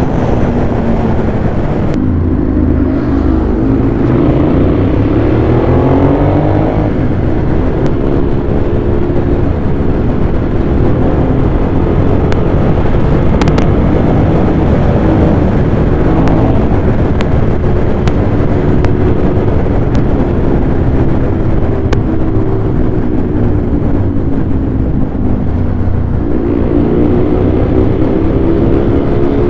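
Ducati Monster 821's L-twin engine running hard at speed. About two seconds in the revs dip and then climb for several seconds, hold fairly steady through the middle, then dip and climb again near the end.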